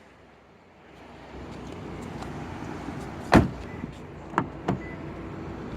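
A car door is shut with one solid thud about halfway through, followed by a couple of lighter latch clicks, over steady background noise.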